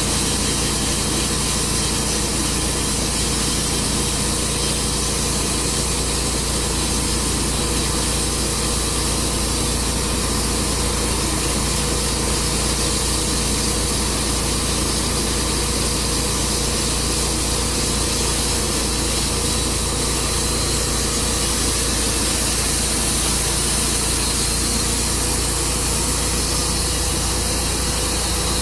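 Engine-driven Tru Cut sawmill running steadily, its blade sawing through a walnut log; the engine note stays even throughout.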